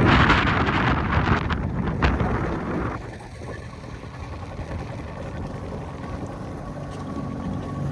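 Wind buffeting the microphone and water rushing past a boat under way. It is loud for about the first three seconds, then eases to a quieter steady rush with a low hum and a faint steady whine.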